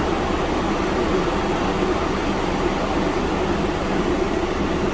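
Steady whir of running fans: an even hiss over a low hum that does not change.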